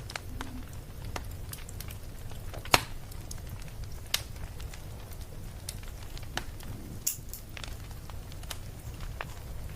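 Wood fire crackling: irregular sharp pops and snaps over a steady low rumble, with one loud pop about three seconds in.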